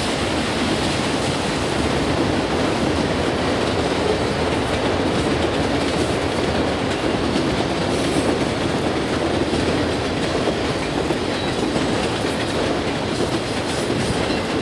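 Canadian Pacific train 281's railcars rolling steadily past, the continuous rumble and clatter of steel wheels on the rails.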